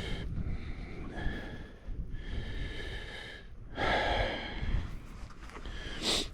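A person breathing close to the microphone, several breaths in and out, over a low wind rumble on the microphone.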